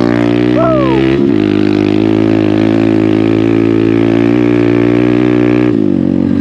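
Hero Xpulse 200's single-cylinder engine running under way through an MW Performance aftermarket exhaust, steady, with a brief dip in revs a little over a second in and a drop in revs near the end.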